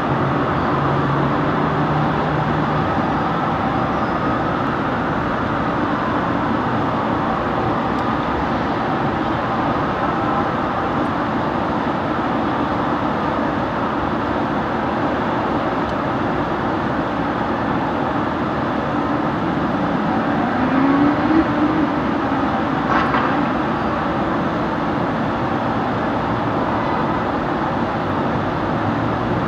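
Fire engine on an emergency run: steady engine and road noise, with a faint slowly wavering tone above it. About two-thirds through, the engine's pitch rises for a couple of seconds, followed by a short sharp sound.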